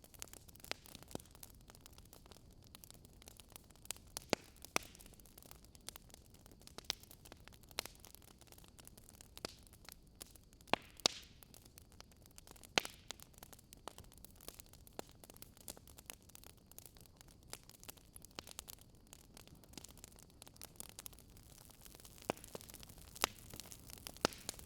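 Crackling wood fire: irregular sharp pops and snaps over a steady hiss.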